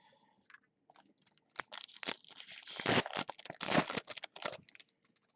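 Basketball card pack wrapper being torn open and crinkled, a run of rustling tears from about a second and a half in, loudest twice near the middle, then stopping.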